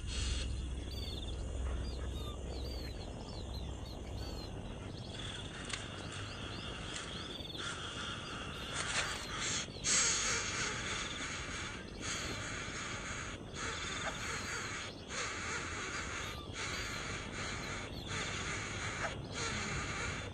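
Bird calls: a run of short rising chirps, then harsh, raspy calls repeated in bursts of a second or so with short breaks between them.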